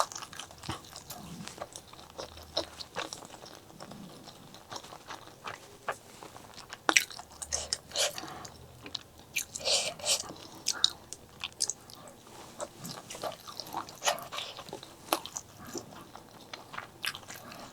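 Close-miked chewing and mouth sounds: wet smacking and irregular crisp clicks as spicy pork leg curry with rice is eaten.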